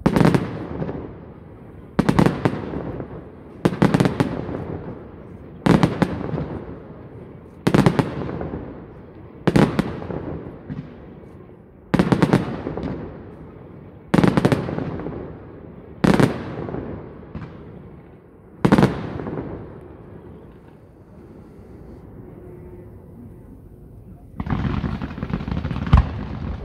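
Aerial fireworks shells bursting in a steady series, about one bang every two seconds for some ten bangs, each trailing off in a long rumble. After a short lull, a hissing rush with one sharp crack comes near the end.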